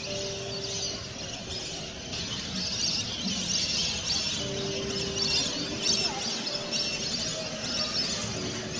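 A dense chorus of many birds calling at once: a continuous high chatter of overlapping short calls, with soft held notes of background music underneath.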